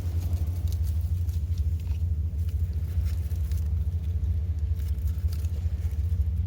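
Wind buffeting the microphone: a steady low rumble that flutters constantly, with a few faint clicks over it.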